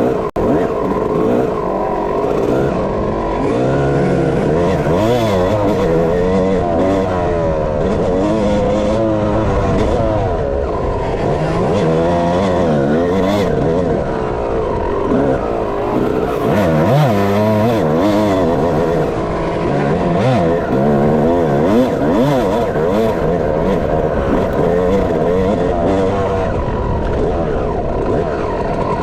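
Dirt bike engine being ridden hard, revving up and dropping back again and again as the rider accelerates, shifts and backs off through the track.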